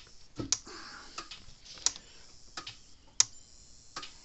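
Dare Enforcer DE4000 electric fence charger clicking as it pulses, a sharp click about every second and a third with fainter ticks between. The clicking shows the charger is firing again, the fault having been a bad diode.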